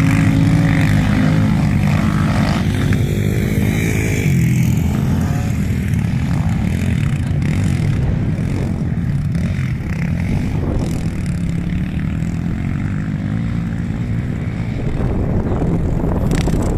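Quad bike (ATV) engines running under varying throttle, the pitch climbing briefly about three seconds in.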